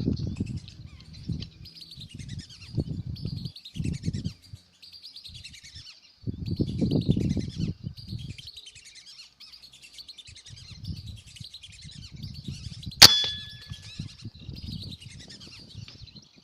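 Many birds chirping and whistling together without a break. There are low rumbling thumps in the first half, and late on a single sharp crack followed by a brief metallic ring.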